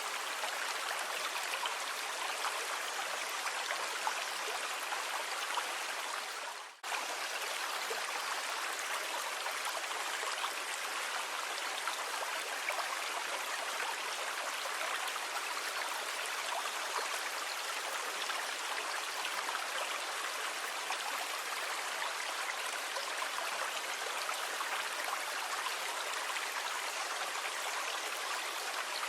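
Steady, even rushing of sea water with no distinct wave surges, cut by a sudden brief dropout about seven seconds in.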